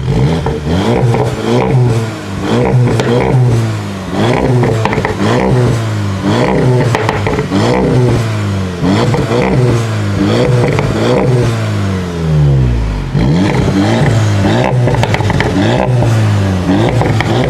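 Volkswagen Golf R's 2-litre four-cylinder engine with an Akrapovic exhaust, revved again and again, its pitch rising and falling about once a second. One longer rev falls away about twelve seconds in.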